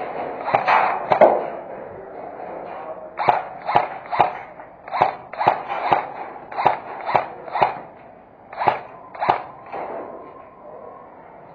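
Airsoft guns firing single shots: about a dozen sharp pops in uneven clusters, roughly half a second apart, stopping about two-thirds of the way through.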